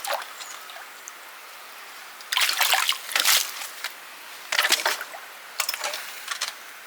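Water splashing and sloshing in an old water trough in several short bursts, starting about two seconds in, as the trough is cleaned out.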